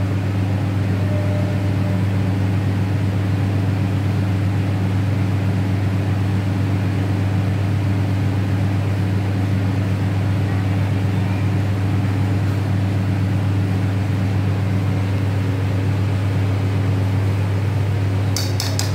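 A steady low machine hum, unchanged throughout, with a fast rattle of sharp clicks starting shortly before the end.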